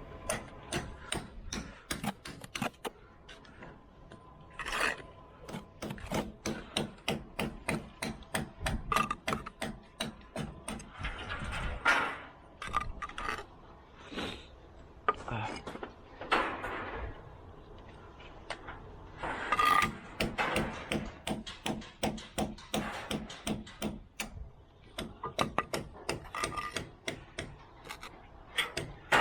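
Bricklaying hand work: many quick taps and knocks with scraping strokes of tools against brick and mortar.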